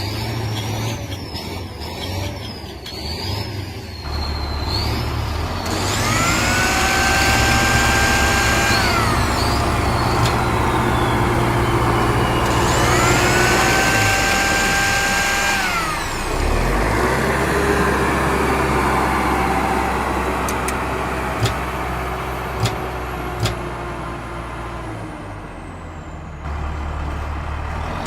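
Cartoon vehicle engine sound effects: the engine revs up, holds, and winds down twice, over a steady low rumble. A wavering high whistle-like tone runs in the first few seconds, and three sharp clicks come near the end.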